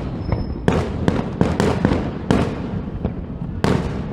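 Aerial fireworks bursting overhead in a rapid, irregular series of loud bangs, each followed by a rumbling tail.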